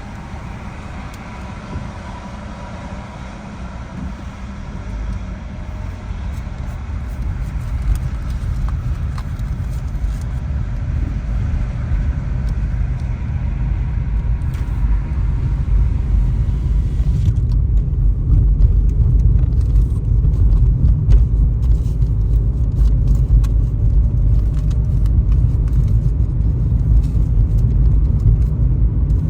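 Road noise of a car driving on a highway: a steady low rumble that grows louder over the first twenty seconds or so, then holds.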